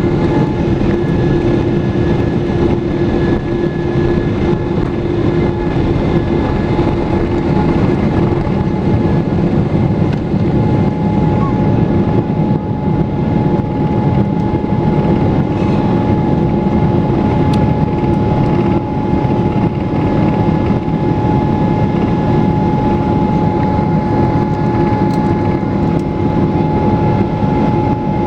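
Boeing 777 jet engines running at take-off power: a steady, loud noise with several held whining tones, one of which steps slightly higher about ten seconds in.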